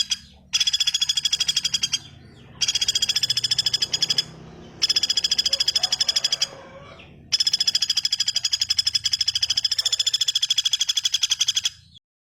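A bird's fast rattling call, about ten sharp notes a second, given in repeated bursts of one to four seconds with short pauses between. It stops abruptly near the end.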